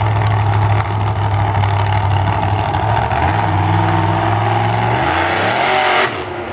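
A loud vehicle engine at a motorsport show runs steadily, then its pitch shifts and climbs in steps as it revs, before cutting off abruptly about six seconds in.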